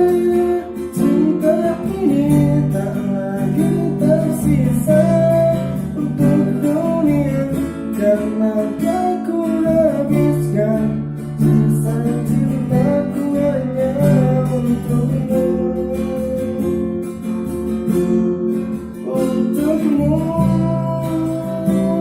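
Acoustic guitar strummed as a song accompaniment, with a melody line over the chords that thins out for a few seconds past the middle.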